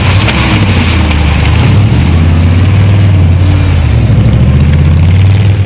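Off-road 4x4's engine running loud and hard under load in deep mud, its pitch wavering as the throttle is worked.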